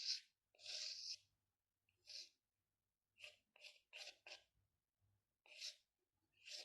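Drawing strokes scratching across paper, quiet and irregular. A few longer strokes come first, then a quick run of short ones about three to four and a half seconds in, then two more strokes near the end.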